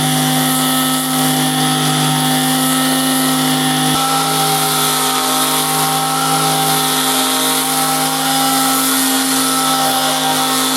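Electric sander running steadily against the steel of a large rusty wrench, grinding down the surface with coarse-to-medium grit. The motor's hum steps to a slightly different pitch about four seconds in.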